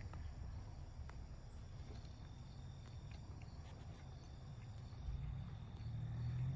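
Quiet outdoor background: a steady low rumble with a faint, steady high insect drone and a few faint ticks.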